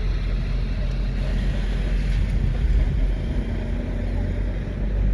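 Car on the move: a steady low engine and road rumble.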